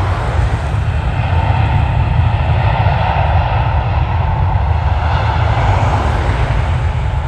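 Jet airliner engines running as a plane passes, a loud steady rumble with a rushing band that swells through the middle and eases near the end.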